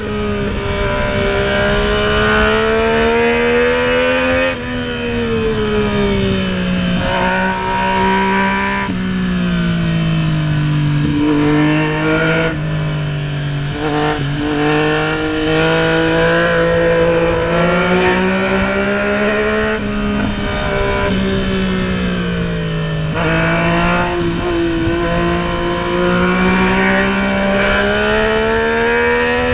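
Yamaha MT-09 inline-three engine running under the rider, with wind rush. Its pitch climbs slowly under throttle and drops sharply several times as it shifts up or rolls off.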